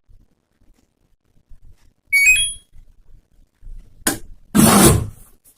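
A quick run of short electronic beeps at several pitches from the LG front-load washing machine's control panel, followed about two seconds later by a click and a louder thump.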